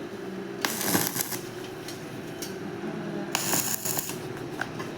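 Rustling and handling noise, in two bursts about a second in and past the three-second mark, with a few sharp clicks.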